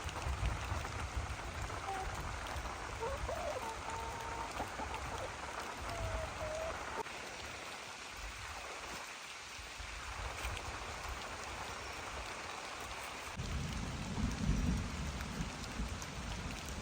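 Steady rain falling, a continuous hiss of drops on surfaces. Near the end a deep low rumble swells up under the rain.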